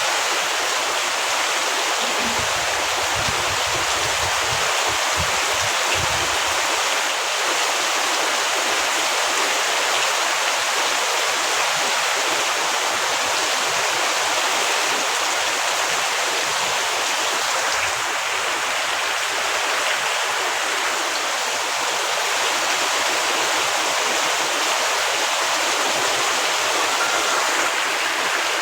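Heavy rain falling in a steady, dense hiss. A faint low rumble sits under it for a few seconds a couple of seconds in.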